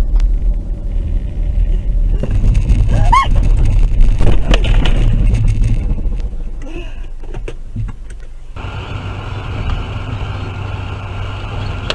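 Car engine and road rumble heard from inside a moving car on a dashcam recording. A short wavering squeal comes about three seconds in, and a steady high whine joins about eight and a half seconds in.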